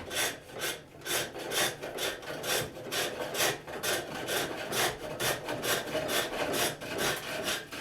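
Wooden vessel being turned on a foot-powered pole lathe: a turning tool cutting down the rim, with rhythmic scraping strokes about two a second as the treadle drives the work back and forth.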